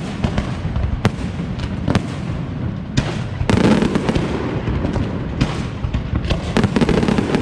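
Aerial fireworks display by Pirotecnia Valenciana: a rapid string of sharp bangs over a continuous low rumble of shells bursting, with denser, louder volleys of crackling about halfway through and again near the end.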